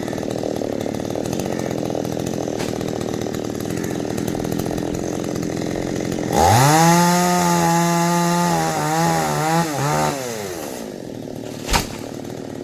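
Two-stroke chainsaw idling, then revved sharply to full throttle about six seconds in. It holds at high revs for a few seconds with the pitch wavering, then drops back to idle. A single sharp knock comes near the end.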